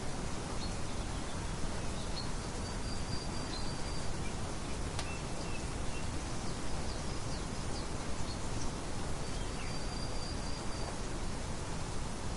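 Birds chirping, with scattered short high calls and a couple of held whistled notes, over a steady outdoor hiss. A single sharp click about five seconds in.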